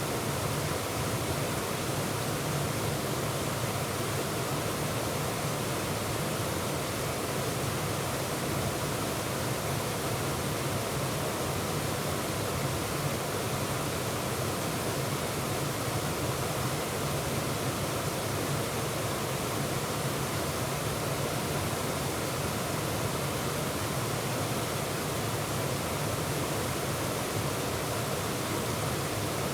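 Waterfall pouring steadily, a constant rushing of falling and churning water with no change throughout.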